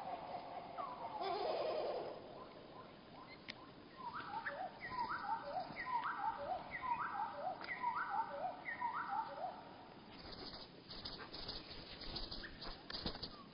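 Songbird calls slowed to one-third speed, so they sound low and drawn out, almost like bleating. A call phrase repeats about six times, roughly once a second, in the middle, followed near the end by a run of fast clicks and taps.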